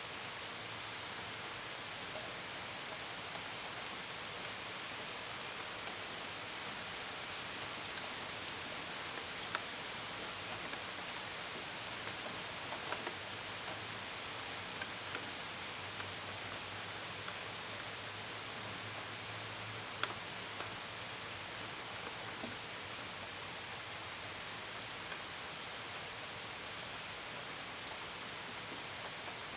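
Steady gentle rain, with scattered drops pattering on a window and gutters and a few louder single drips standing out. Crickets chirp faintly in a regular, repeating pulse behind it.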